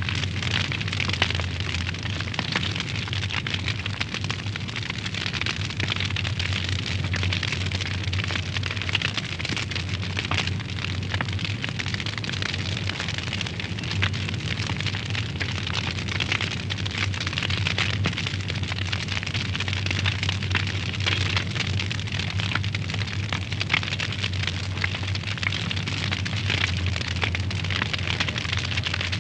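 Wood fire burning in a fireplace: a steady hiss full of irregular small crackles and pops, with a low steady rumble underneath.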